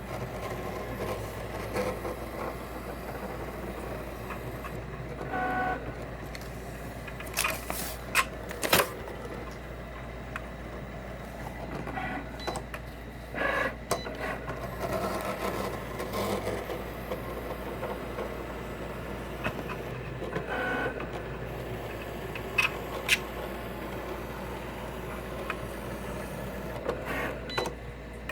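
Cricut Explore Air 2 cutting machine running, its carriage and roller motors whirring in short runs with sharp clicks and knocks now and then. The owner finds the machine is making an abnormal scratching, crunching noise as it works.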